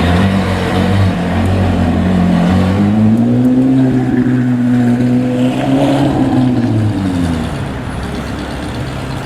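Ferrari 458's 4.5-litre V8 with a modified exhaust running while it warms up. About two and a half seconds in its pitch rises and holds for a few seconds, then drops back down about seven seconds in.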